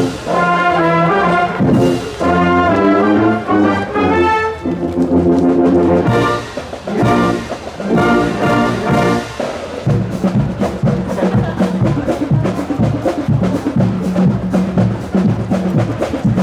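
Marching wind band playing: brass ensemble phrases of held and moving notes. About ten seconds in, the drums take over with a steady, quick beat under low brass notes.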